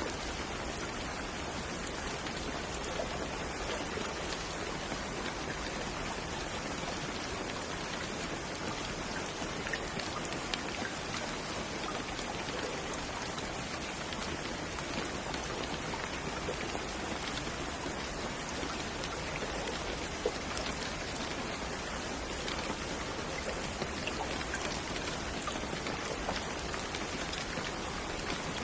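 Steady rain falling, a dense even hiss with many small drop ticks landing on a surface.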